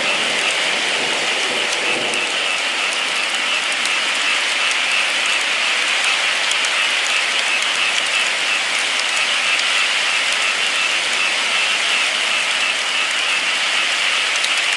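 Steady rain falling, an even hiss of dense patter with single drops ticking through it.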